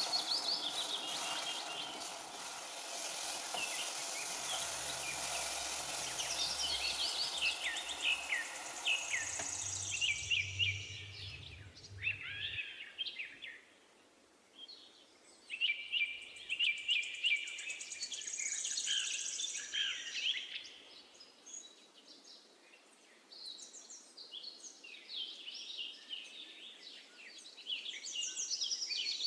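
Small birds chirping and singing in quick, repeated phrases. For about the first ten seconds a steady hiss lies under them, then stops abruptly.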